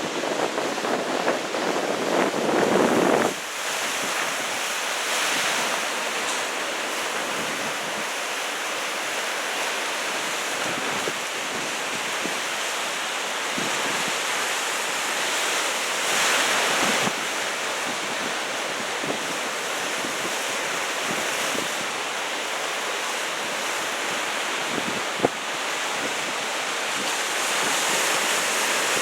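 Ocean surf from large typhoon swell: waves breaking and washing in as a steady rush, with a louder wave breaking about halfway through. Wind rumbles on the microphone for the first three seconds, then drops off suddenly.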